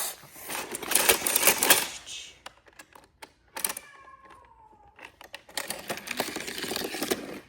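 Rapid plastic clattering and clicking from a Hot Wheels car wash playset, as toy cars and the set's plastic parts rattle along the track, in two bursts of about two seconds each, with a short faint falling tone in between.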